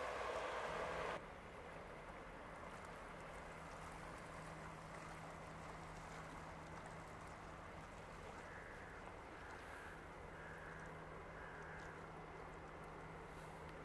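A loud rushing noise cuts off about a second in. It gives way to a steady low engine hum, with four short calls, likely birds, about eight to twelve seconds in.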